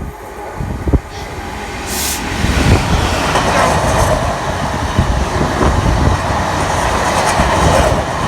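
Heavy freight train hauled by a Class 66 diesel locomotive passing through the station: a loud rumble of wheels and wagons builds over the first two seconds and holds steady, with a rhythmic clatter of wheels over the rail joints.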